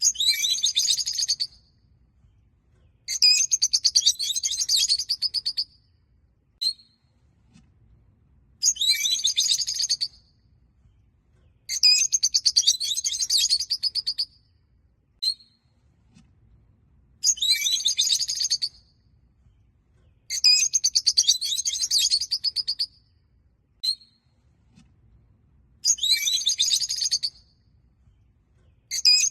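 A flock of peach-faced lovebirds chirping: bouts of rapid, high-pitched chattering a couple of seconds long come every few seconds, with single short chirps in the pauses between.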